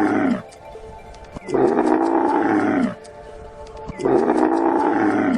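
An animal call, repeated in long calls of just over a second, each falling in pitch at its end, over background music.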